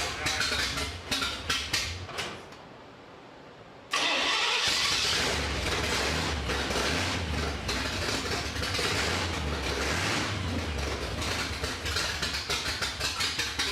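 Cammed, stroked 327 small-block V8 in a 1965 Chevy C10 running with a choppy, pulsing idle. The engine sound fades out about two and a half seconds in and comes back suddenly about a second and a half later, then keeps running.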